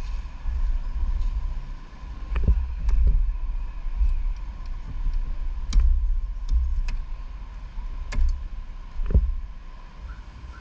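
Motorcycle on the move: a heavy, fluttering low rumble of engine and wind with a faint steady whine, broken by several sharp knocks.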